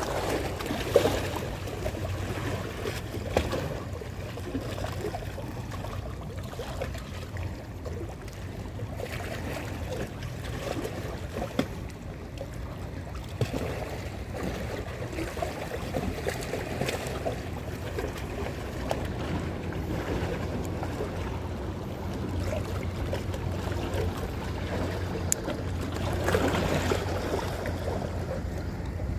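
Sea water washing and lapping with a steady low rumble of wind on the microphone, swelling briefly about a second in and again near the end.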